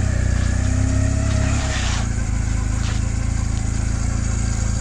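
The 2009 Honda Rebel 250's twin-cylinder engine running at low riding speed. Its pitch rises a little, then drops about two seconds in with a short hiss.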